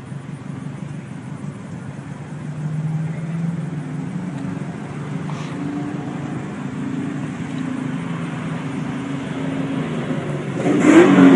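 Steady drone of a car running, with wavering low engine tones under road noise; a louder rush swells near the end.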